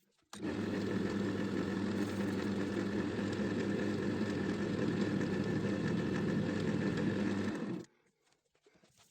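Electric wood lathe running steadily with a mains-motor hum and a hissing rush over it, switching on abruptly just after the start and cutting off abruptly about a second before the end.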